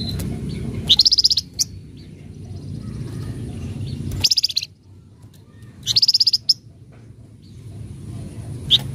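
Javan fulvetta (flamboyan) giving short, harsh, rapid chattering bursts: three quick chatters about a second, four seconds and six seconds in, and a single short note near the end. A low rumble runs underneath.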